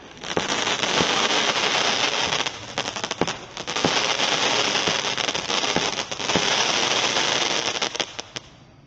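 A 200-gram consumer firework cake firing, a dense crackling with sharp pops all through it, dying away near the end.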